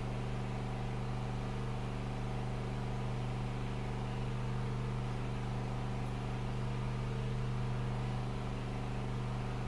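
Steady low machine hum with several even overtones, unchanging throughout.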